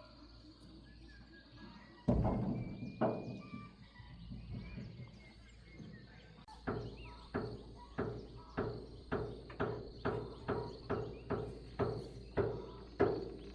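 Two heavy knocks, then after a pause a steady run of blows at about one and a half a second, each ringing briefly. Insects chirr steadily behind them.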